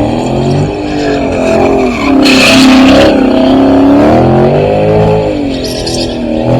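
Loud car engine revving up and down several times, with a brief hissing burst about two seconds in.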